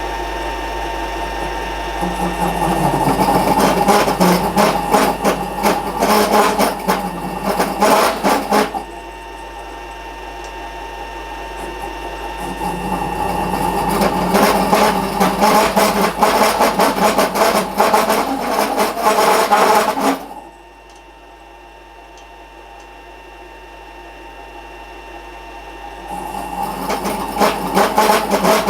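A workshop machine running steadily, with long stretches of rasping, scraping work against metal: about two seconds in, again from about twelve seconds, and once more near the end, with a quieter spell of the machine alone in between.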